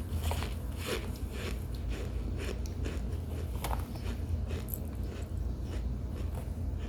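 Biting into and chewing a pressed brick of cornstarch and baby powder, soft and squeaky because it is still warm rather than frozen: irregular, crisp, squeaky crunches.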